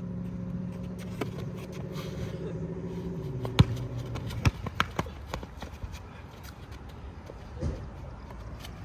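A car engine hums at a steady pitch, drops lower about three seconds in and dies away a second later. Then come scattered sharp thumps of a basketball bouncing and running footsteps.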